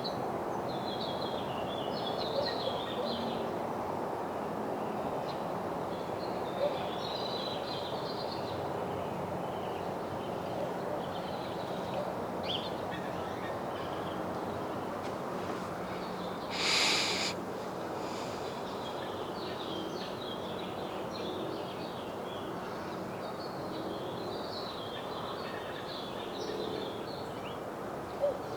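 Sparrows chirping in short scattered bursts over a steady outdoor background hum, with a brief rushing hiss a little past halfway.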